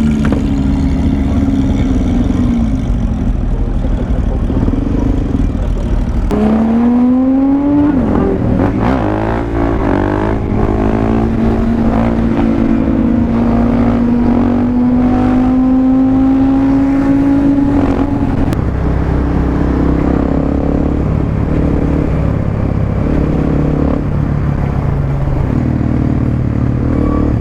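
Suzuki DRZ400 supermoto's single-cylinder engine running while riding in traffic. It revs up about six seconds in, then pulls with a slowly rising pitch for several seconds before easing off.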